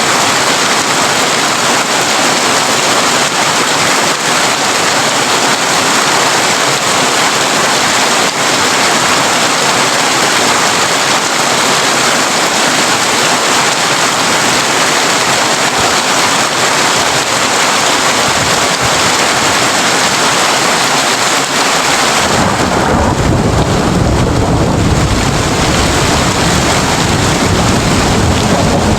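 Heavy rain pattering steadily on a tin roof, an even hiss. About three-quarters of the way through, a deep rumble of thunder comes in under the rain.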